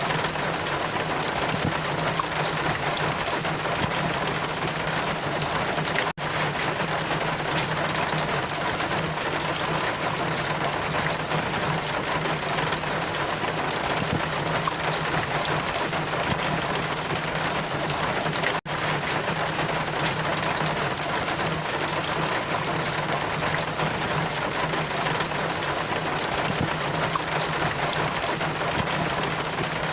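Rain and wind ambience: a steady, dense hiss of rain, broken by two brief dropouts, about six seconds in and again near nineteen seconds in.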